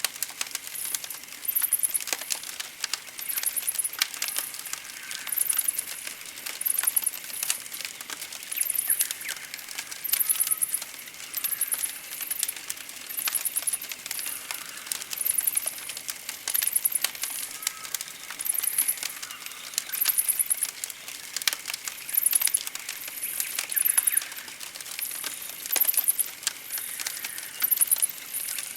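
Campfire crackling and popping in irregular sharp clicks, with a very high, rapid chirp repeating evenly about every second and a half.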